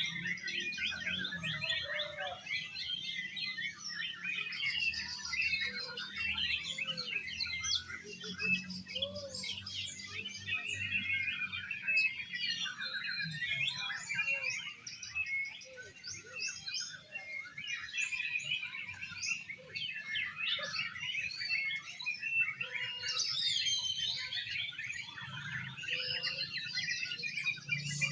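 Several oriental magpie-robins (kacer) singing at once, a dense, continuous tangle of overlapping chirps, whistles and warbles with no pause.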